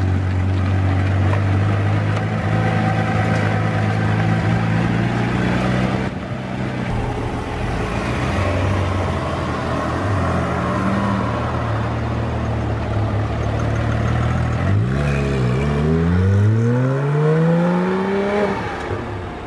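Porsche 997 GT3 RS Mk1's 3.6-litre flat-six running at a steady idle, then accelerating hard near the end, its pitch climbing, dipping at a gear change, and climbing again.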